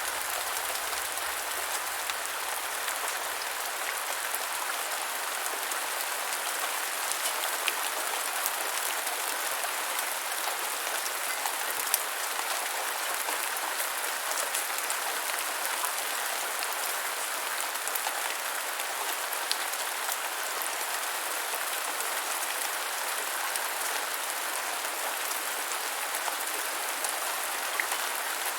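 Steady rain falling on the ground: an even hiss with scattered sharper drop ticks.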